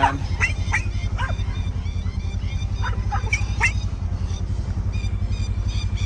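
Birds calling overhead in short, sharp, repeated cries. These are alarm calls from birds that seem to have chicks nearby and are upset by the intrusion. Under them a vehicle engine runs steadily with a low, even pulse.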